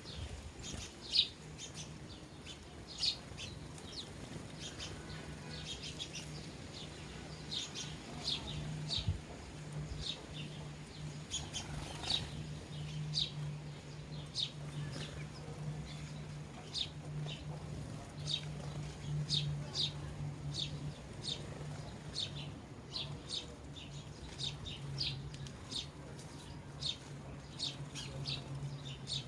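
Sparrows chirping: many short, high chirps repeating every second or so, over a steady low hum.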